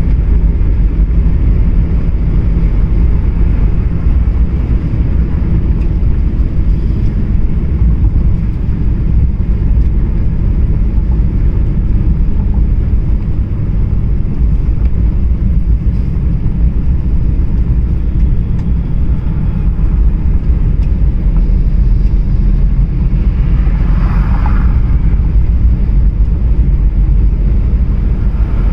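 Steady low rumble of a car driving on the road, with a brief higher-pitched sound about three-quarters of the way through.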